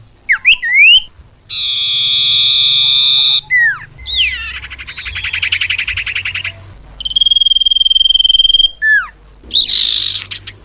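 A run of bird calls from a bird-luring recording: quick sweeping whistles, then a long buzzy note, a fast trill, a steady high whistle and a short buzzy note near the end. Each phrase starts and stops abruptly.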